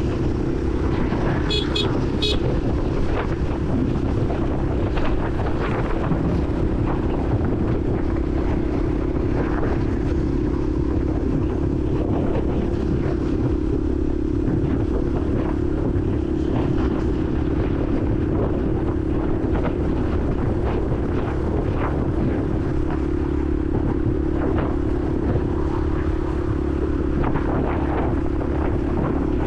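Honda CRF150L's single-cylinder four-stroke engine running at a steady pace while riding, heard from the helmet. Two short high-pitched tones sound about two seconds in.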